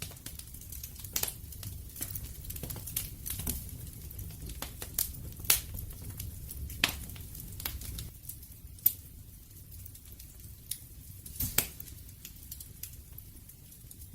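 Wood fire crackling: irregular sharp pops and snaps over a low, steady rumble of burning, with a few louder snaps scattered through.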